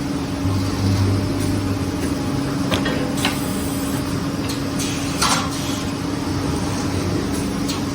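Woodworking drilling machine for corner brackets running with a steady motor hum, with a few short knocks about a third of the way in and again past the middle.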